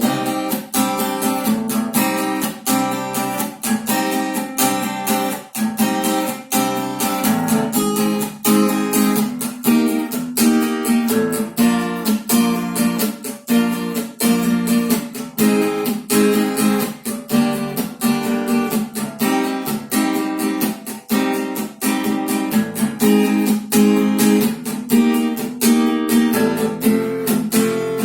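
Acoustic guitar strummed steadily in a regular rhythm, playing the instrumental close of a sung guitar song without a voice.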